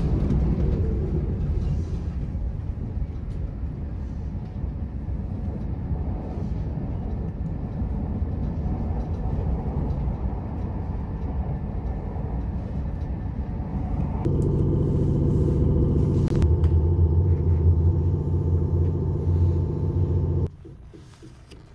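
Running noise inside a passenger car of the Super Yakumo limited express train: a steady low rumble of the train on the track. About two-thirds of the way through it grows louder, with a steady humming tone added. It cuts off suddenly near the end.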